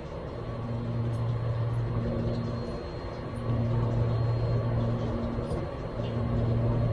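An engine running steadily, a low hum with rumble that briefly dips every couple of seconds; no rifle shots.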